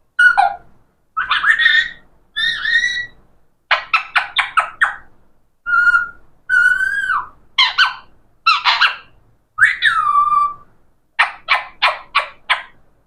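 A pet parrot calling and whistling in bursts. Runs of short, quick squawks alternate with a few longer whistled notes that slide in pitch, one falling clearly about ten seconds in.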